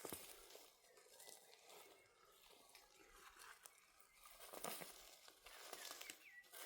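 Faint, irregular rustling and crunching with scattered light clicks, like dry brush or material being handled.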